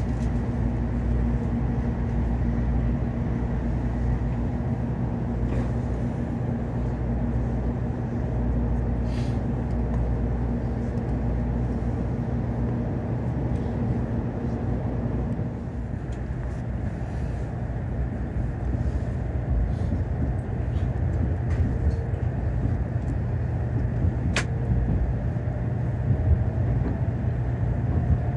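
Cabin noise inside a Tokaido Shinkansen car: a steady low rumble and hum, with a humming tone that stops about halfway through. Near the end a faint rising whine comes in as the train moves off toward Nagoya station.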